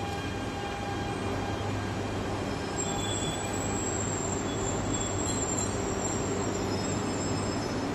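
Akita Shinkansen Komachi train rolling slowly into the platform, with a steady low hum from the train. A thin, high-pitched brake squeal starts about three seconds in and stops shortly before the end as the train slows to a halt.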